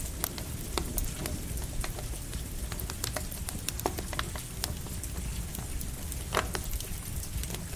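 Campfire crackling, with irregular sharp pops over a steady hiss of light rain and a low rumble.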